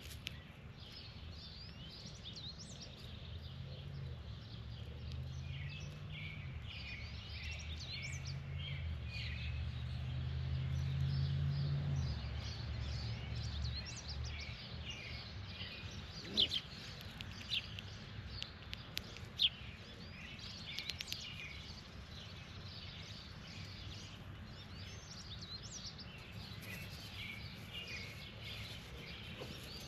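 Outdoor birds chirping and calling over and over in high, short notes. A low engine hum builds for several seconds and stops suddenly about twelve seconds in, and a few sharp clicks come a little later.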